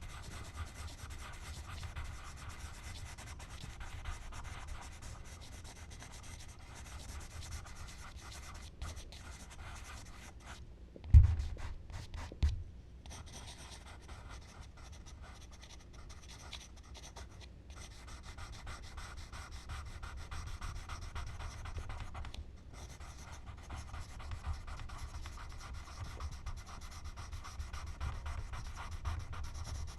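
Charcoal scratching and rubbing across smooth Bristol paper in continuous strokes. About a third of the way in there are two dull low knocks, about a second and a half apart.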